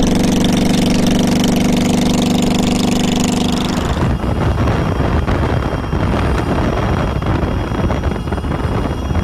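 Motorcycle engine idling steadily, then an abrupt cut about four seconds in to a rough, noisy rumble.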